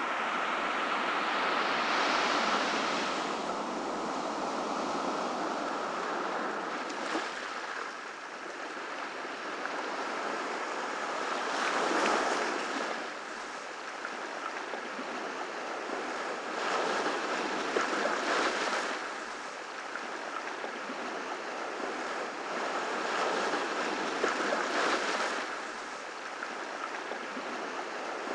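Ocean surf on a beach: a continuous wash with waves breaking and swelling every five seconds or so.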